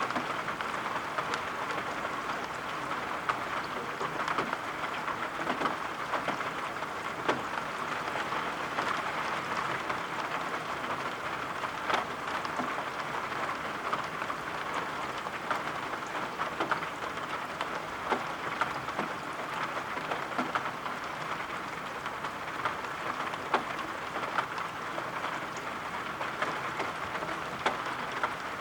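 Steady rain: an even hiss dotted with scattered sharp ticks.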